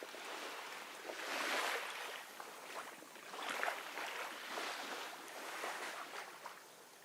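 Gentle ocean waves washing in, with several swells of surf. The loudest comes about a second and a half in, and the wash fades near the end.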